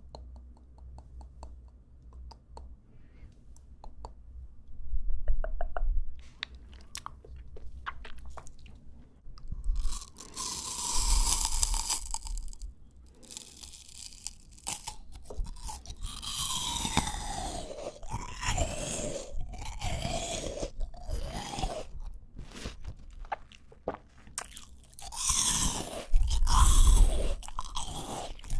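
Crisp fresh fruit being bitten and chewed right at the microphone: wet crunching bites and chewing, faint at first, with the loudest bites about five seconds in and near the end.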